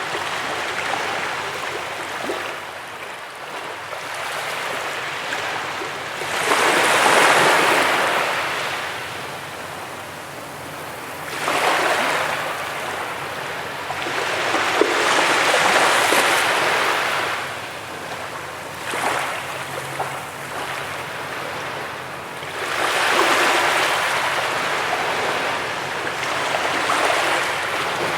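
Sea waves breaking and washing up a beach, a steady surf hiss that swells into louder surges every few seconds, five times.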